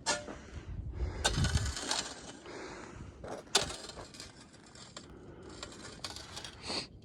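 Footsteps crunching through crusted snow and ice, several irregular steps with a sharper crunch about halfway through.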